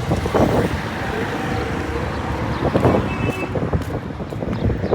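Road traffic noise: a steady low rumble of vehicles with scattered fainter street sounds.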